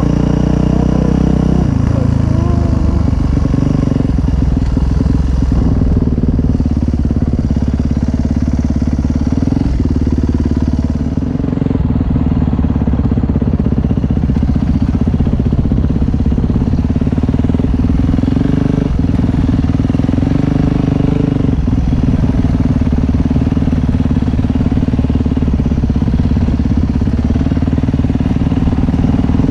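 Dirt bike engine running steadily while riding, with a few light knocks along the way.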